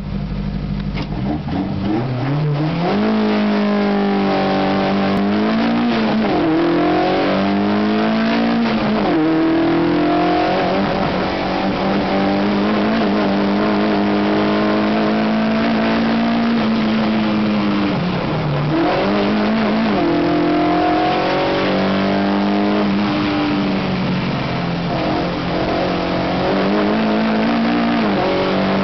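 Zastava Yugo 1.3's four-cylinder engine heard from inside the cabin under hard acceleration. The engine note climbs over the first few seconds, then holds at high revs, dipping briefly and climbing again several times.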